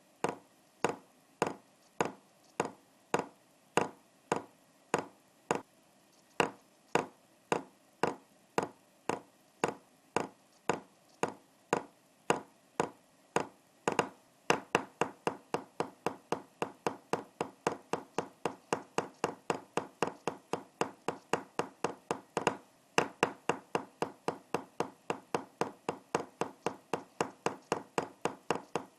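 Sharp percussive taps or claps keeping a steady beat, about two a second, then doubling to about four a second about halfway through.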